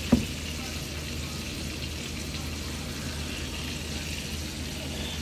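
Battered chicken frying in hot oil in a cast iron skillet: a steady, even sizzle, with a short thump just after the start and a low hum underneath.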